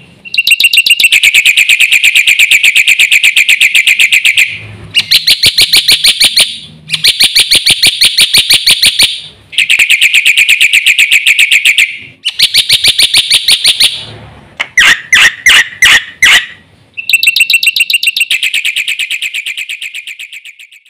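Black-winged myna (jalak putih) singing hard: long phrases of rapidly repeated, harsh, ringing notes broken by short pauses, then a handful of separate calls, then a last phrase that fades out at the end.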